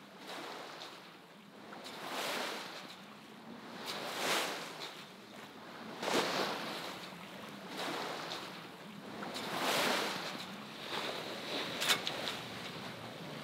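Sea water rushing and splashing along a sailboat's hull as it sails, swelling and fading about every two seconds with the waves. A few sharp clicks come near the end.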